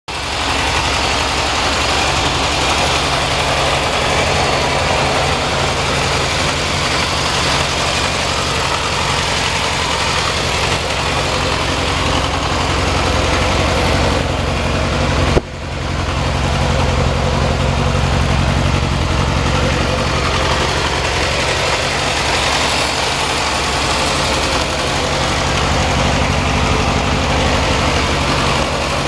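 Yamaha XJR400R's inline-four engine idling steadily through its stock muffler, with a brief break about halfway through.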